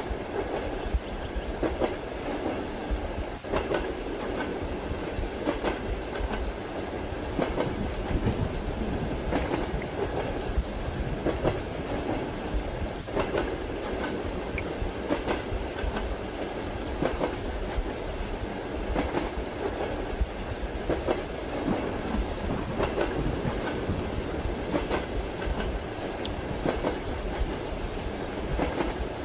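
Railway carriage wheels clacking over rail joints in a steady rhythm, about one clack every two seconds, over the continuous rumble of the moving train heard from inside a compartment.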